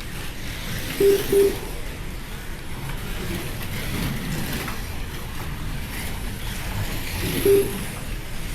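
Slot cars running laps on a routed track, a steady whirring of small electric motors and tyres. Three short electronic beeps cut through: two about a second in and one near the end.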